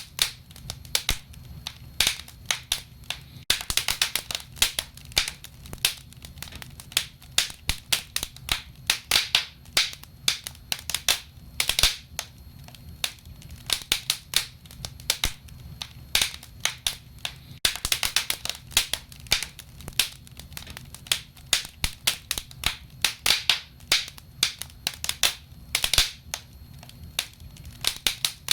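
Wood fire crackling: irregular sharp pops and snaps over a low steady rumble, with denser bursts of crackling about three seconds in and again a little past the middle.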